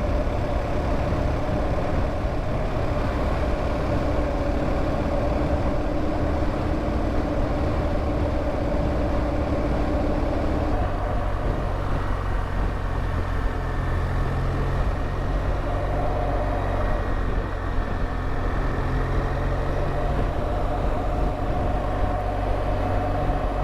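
BMW R1200GS Adventure's boxer-twin engine running steadily under way, with wind noise. The engine note shifts slightly about eleven seconds in.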